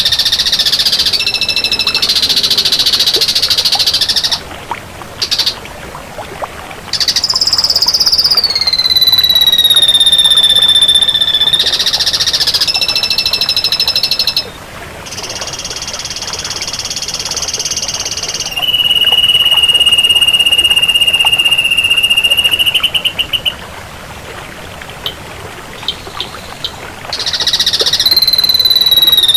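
Ashy drongo singing: long drawn-out whistles, some held steady and one sliding down in pitch, broken up by harsh buzzy phrases and a quick rattling trill.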